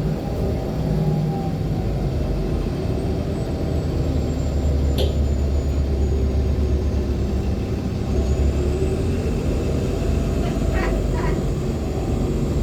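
Steady low rumble of a NOVA LFSA hybrid articulated bus with a Cummins ISL9 diesel, heard from inside while it runs. A faint high whine slowly falls and then rises again. There is a sharp click about five seconds in and a few short squeaks near the end.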